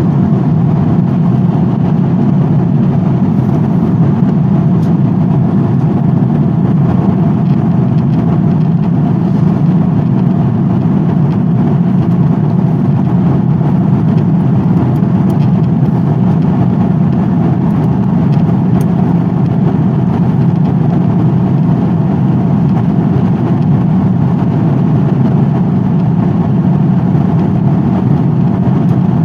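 Aircraft cabin noise in flight: a steady, low, rushing drone that does not change.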